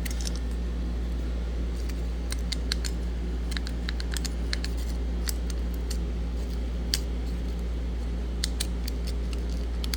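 Scattered light metallic clicks and ticks of a feeler gauge and straight edge being handled on a milled intake manifold face, over a steady low hum.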